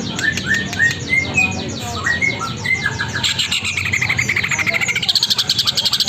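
A songbird singing a quick series of short, sharp chirps that runs into a fast, continuous trill about three seconds in.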